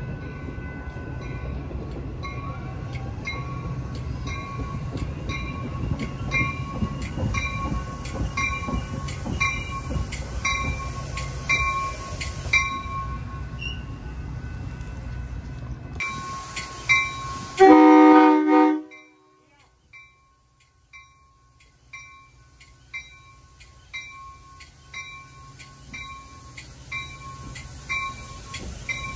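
Metra bi-level commuter train rumbling along the platform tracks while a bell dings steadily, about three strikes every two seconds. About two-thirds of the way in, the train's horn sounds one loud blast of about a second. The rumble then drops away, and the bell keeps dinging over a quieter train.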